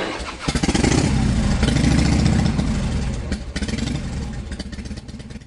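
Motorcycle engine running, its rapid firing pulses gradually fading over a few seconds.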